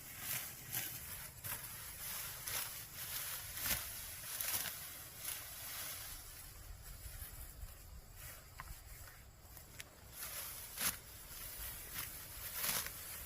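Rice stalks rustling and swishing as they are handled in the field: irregular dry crunches and swishes, some louder than others, with no steady rhythm.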